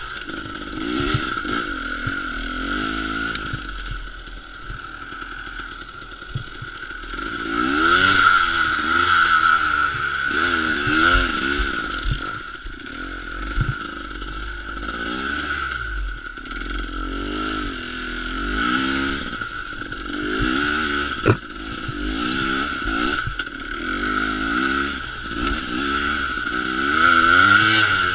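Enduro dirt bike engine revving up and down over and over as it is ridden up a rough trail. A single sharp knock comes about 21 seconds in.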